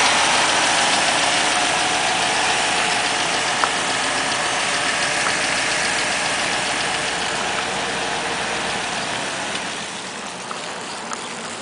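1957 Ford Thunderbird's V8 idling steadily, very quiet and very smooth, getting a little quieter near the end.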